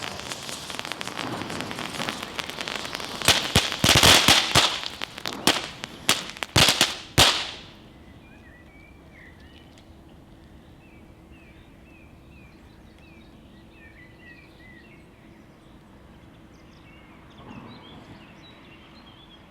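A rapid series of sharp bangs and crackles, loudest around four seconds in, that stops abruptly about seven seconds in. After that come faint high chirps over a low steady hum.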